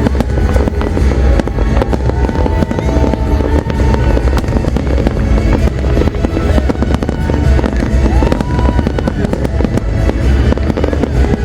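Dense, non-stop fireworks barrage: rapid overlapping bangs over a continuous deep booming rumble, with music playing underneath.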